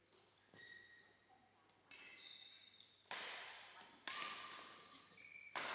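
Badminton rackets striking a shuttlecock in a doubles rally: three sharp hits about a second apart in the second half, after a couple of fainter knocks.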